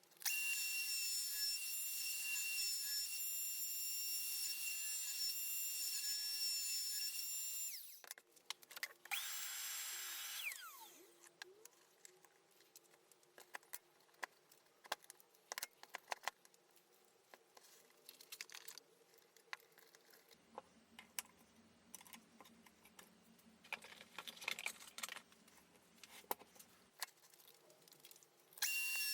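A motor-driven workshop tool runs steadily with a high whine and hiss for about eight seconds, then stops. A second short run follows, its whine falling as it spins down. Scattered clicks and knocks of handling follow, with a low hum in the middle of that stretch.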